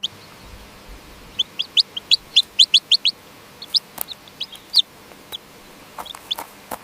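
Birds chirping: a quick run of about ten short, high chirps a little over a second in, then scattered single chirps, with one sharp click midway.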